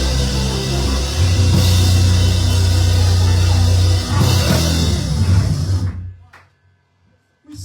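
Loud band music, with a drum kit, a heavy bass line and guitar, playing steadily. About six seconds in it dies away quickly to near silence, broken by a couple of faint clicks.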